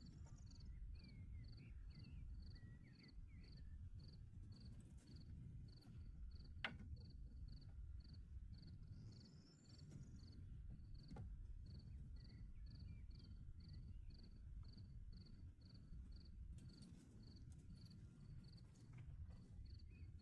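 Faint insect chirping, most likely a cricket, repeating evenly at about two chirps a second over a low outdoor rumble. A few faint bird-like calls come and go, and there is one sharp click about a third of the way in.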